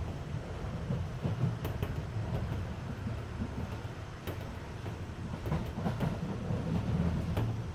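Running noise heard inside a Keisei 3400 series train car on the move: a steady low rumble of wheels on rail, with scattered sharp clicks from the rail joints. The car's air conditioning runs beneath it.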